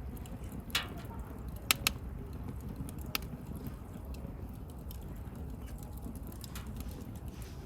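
Wood fire crackling: a low, steady rumble of burning with a few sharp pops, the loudest pair about two seconds in.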